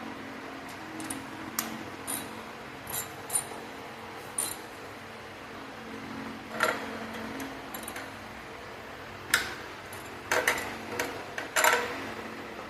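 Hand tools clinking and tapping on metal parts in an engine bay: scattered sharp clicks and small knocks, busiest in the last few seconds, over a steady low hum.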